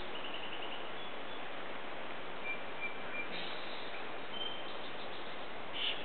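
Sparse birdsong over a steady hiss: a short rapid trill near the start, two thin whistled notes in the middle, and a brief louder call near the end.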